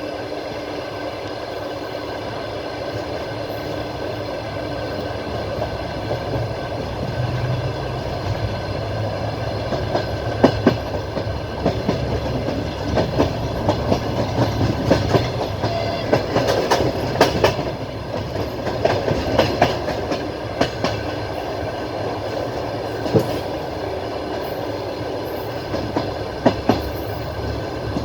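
Passenger train carriage on the move: a steady rumble and hum, with the wheels knocking irregularly over rail joints from about a third of the way in, most densely in the middle.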